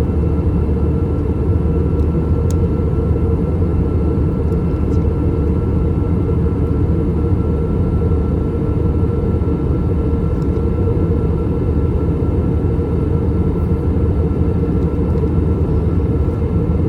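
Steady cabin noise of an Airbus A321 in flight: a low, even roar from its IAE V2500 turbofan engines and the airflow, with a faint steady whine running through it.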